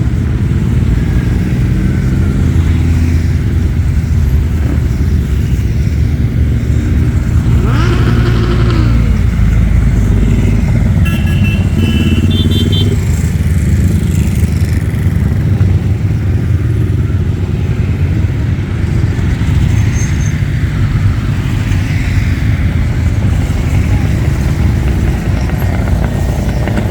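Motorcycle engines running steadily, with one engine revving up about eight seconds in and a quick string of short high beeps a few seconds later.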